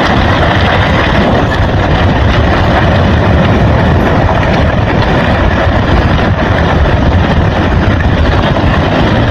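Landslide collapsing into the sea: a loud, steady rumbling roar of earth and debris that cuts off suddenly at the end.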